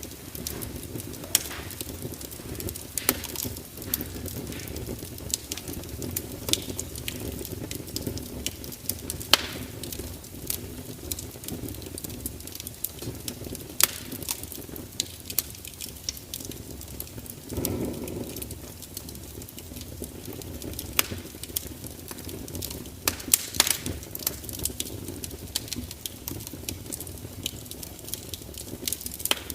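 Wood fire burning with a steady low rumble of flames and frequent sharp crackles and pops. A short louder whoosh comes about eighteen seconds in.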